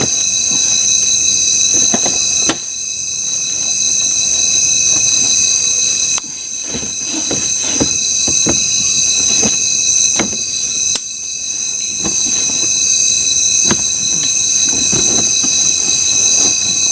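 Loud, steady high-pitched buzzing chorus of tropical forest insects, several pitches held together, with scattered short knocks and clicks.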